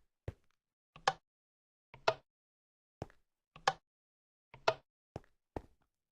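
A series of sharp taps or knocks, about one a second, most of them a faint click followed at once by a louder knock, with silence between.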